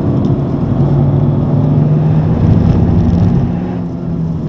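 Honda Civic Type R's turbocharged 2.0-litre four-cylinder engine pulling under acceleration, heard from inside the cabin, its note rising steadily with the revs. The engine sound dips near the end.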